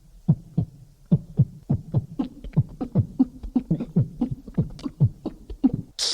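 A beatboxer's vocal imitation: a string of short, low, falling-pitch thumps made with the mouth, about three to four a second, quickening slightly toward the end.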